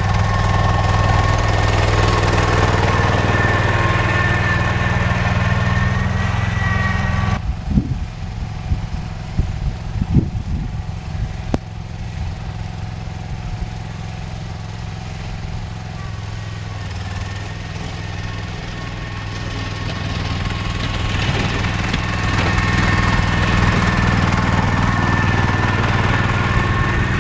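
John Deere 316 garden tractor running while plowing snow, with a steady high whine over the engine. About seven seconds in the sound drops away, with a few knocks, then builds back up over the last several seconds.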